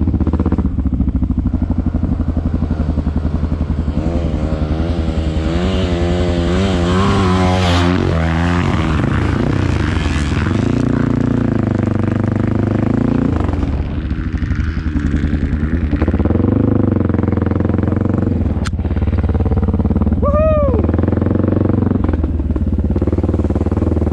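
Honda XR650L's single-cylinder four-stroke engine pulling the bike along a trail, its pitch wavering and climbing a few seconds in, then dropping, and rising again with the throttle a couple of times after. A sharp click near the end, and a short high tone that rises and falls just after it.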